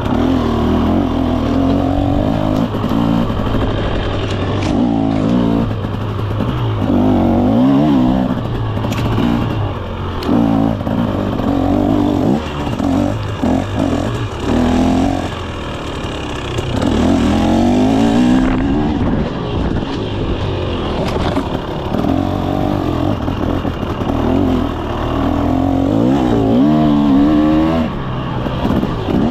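KTM 300 SX two-stroke dirt bike engine being ridden, revving up and dropping back over and over as the throttle is opened and closed.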